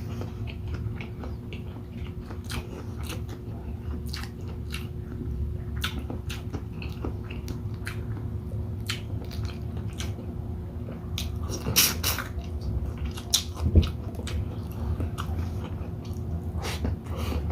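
Close-miked chewing and biting: wet mouth sounds and small crunches of a person eating shrimp in coconut-milk sauce with rice, with a couple of louder knocks past the middle, over a steady low hum.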